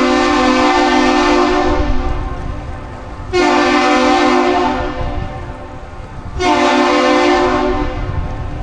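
Deep horn sounding three loud blasts, a salute: the first stops about two seconds in, then two shorter blasts follow a second or so apart.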